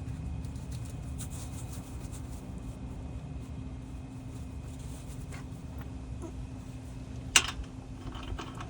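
A steady low mechanical hum with a single sharp click about seven seconds in.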